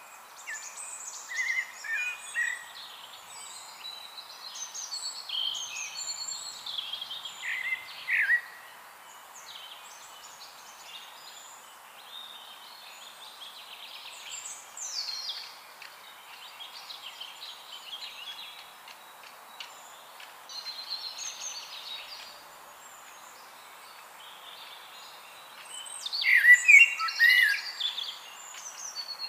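Several songbirds singing and chirping over a steady faint hiss, with a louder run of rapid chirps near the end.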